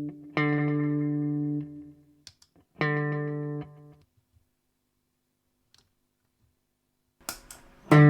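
Electric guitar played through a delay pedal: two sustained chords, each ringing for about a second before being cut off, then a pause, then a few scratchy strums and a loud chord near the end.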